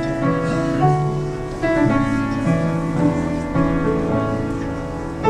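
Piano playing a slow chordal introduction, the chords changing about once a second.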